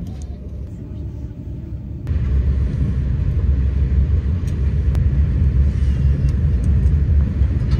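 Steady low rumble of a moving train heard from inside the carriage, getting louder about two seconds in.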